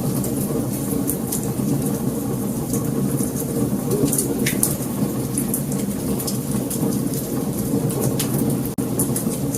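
Wood fire burning: a steady low rumble of flames with sharp crackles and pops scattered through it, and a brief drop in the sound near the end.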